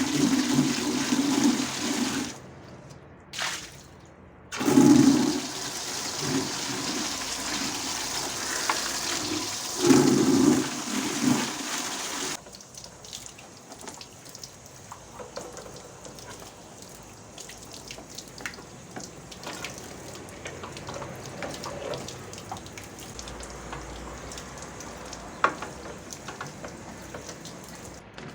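Water gushing and splashing loudly for about the first twelve seconds, with a brief break around three seconds in, then a quieter stretch of softer splashing with scattered knocks.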